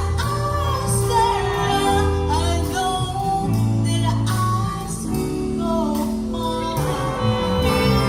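Civic jazz orchestra playing live: a wavering melody over held bass notes that change every half second or so.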